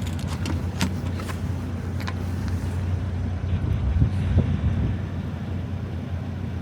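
Semi-truck diesel engine idling steadily, with a few light clicks in the first two seconds and a louder low bump about four seconds in.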